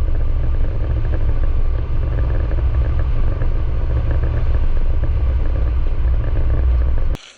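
Gasoline wood chipper engine running steadily, a loud low rumble that cuts off suddenly near the end.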